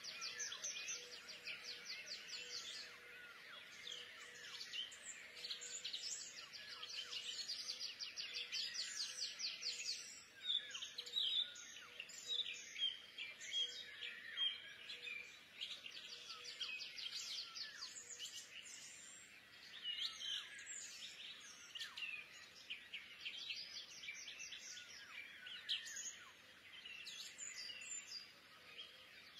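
Birds singing, with many fast, high chirping trills that come and go throughout.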